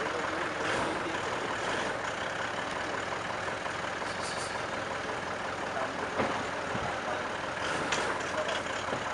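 Toyota Land Cruiser SUV's engine idling as the vehicle is eased forward and brought to a stop, a steady, even running sound with a few faint clicks along the way.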